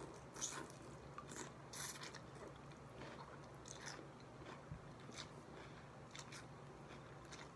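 Faint close-up mouth sounds of eating a first bite of chicken pho: chewing, with a scattering of short, sharp wet clicks and smacks.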